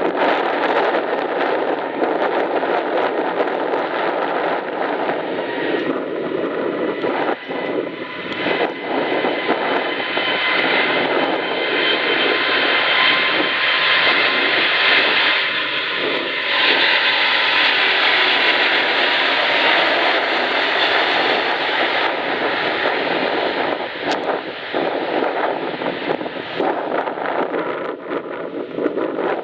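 Airbus A380's four jet engines at takeoff power, a loud steady rushing noise with a faint high whine. It swells to its loudest around the middle and eases off again toward the end as the aircraft goes by.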